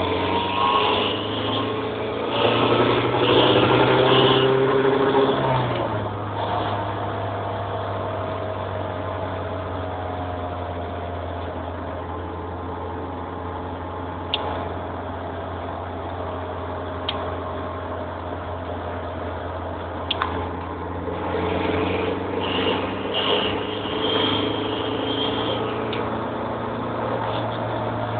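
Nissan SR20DET redtop turbocharged four-cylinder engine revved twice with a steadier stretch between, a chirping, grinding noise riding on the revs. The owner suspects a loose turbo exhaust wheel or a bad wastegate flap rather than a leaking manifold.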